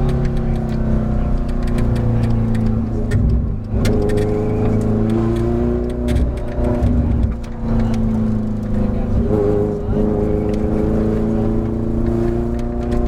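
Ferrari F430 GT race car's V8 engine under hard acceleration, its pitch climbing steadily and dropping briefly at gear changes about four, seven and a half and ten seconds in.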